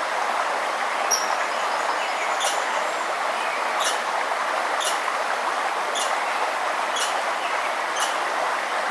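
Steady rushing of a forest river, with a bird giving short, sharp high chip calls about once a second from about two seconds in, and a brief high whistled note about a second in.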